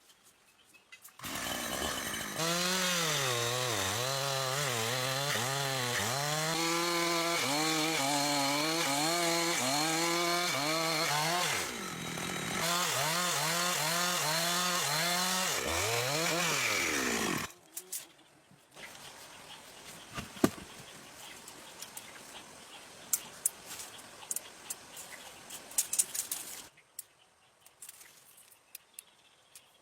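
Chainsaw cutting timber, its engine pitch wavering up and down under load for about sixteen seconds, with a brief ease-off partway through, then cutting out. Softer scraping with a few sharp knocks follows.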